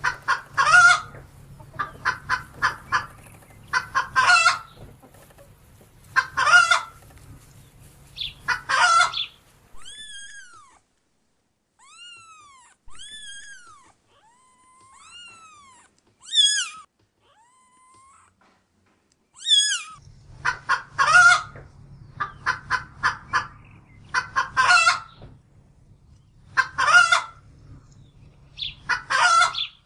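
Chicken cackling: runs of quick clucks, each ending in a louder drawn-out squawk, repeating every couple of seconds. Partway through this breaks off for about ten seconds of separate clear calls that rise and fall in pitch, then the cackling resumes.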